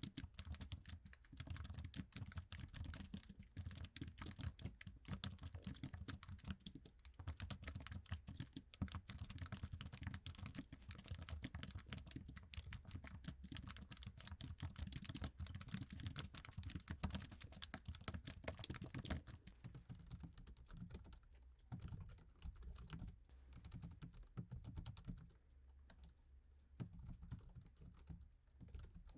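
Fast, continuous typing on an iMac's standard Apple keyboard, a dense run of key clicks that turns sparser and softer for the last ten seconds or so.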